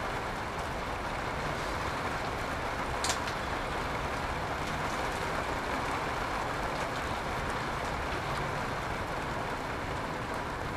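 Steady rain coming down, an even hiss, with one sharp click about three seconds in.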